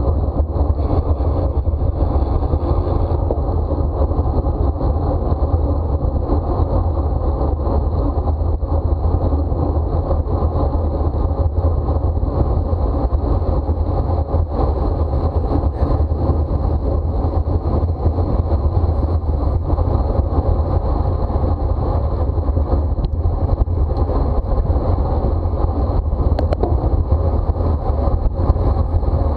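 Steady wind rush and buffeting on a racing bicycle's onboard camera microphone at race speed, a constant low rumble that does not let up.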